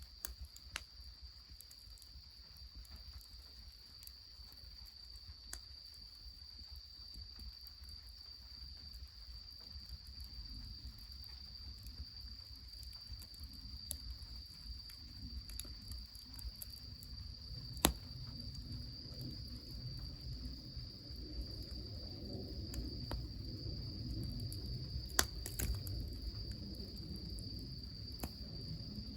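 A steady, high, single-pitched insect trill throughout, with a few sharp snaps, the loudest about 18 and 25 seconds in, over a low rumble that grows through the second half.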